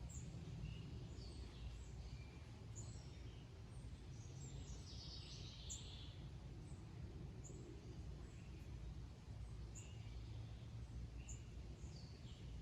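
Outdoor ambience of wild birds chirping, short scattered calls with a busier cluster near the middle, over a low steady background rumble.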